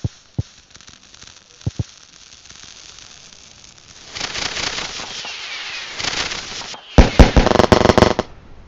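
Fireworks going off: a few sharp pops in the first two seconds, a crackling hiss that swells from about four seconds in, then a rapid string of loud bangs and crackles near the end.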